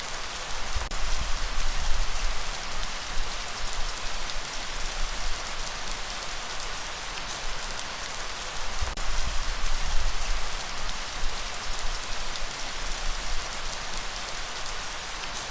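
Steady rain falling: a dense, even hiss with scattered drop ticks, over an uneven low rumble.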